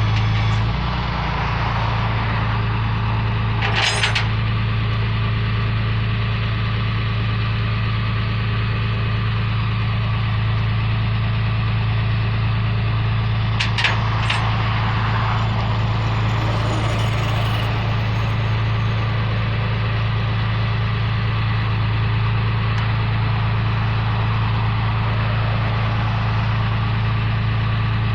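Tow truck engine idling steadily with a low, even drone. There is a short hiss about four seconds in and two quick clicks around fourteen seconds in.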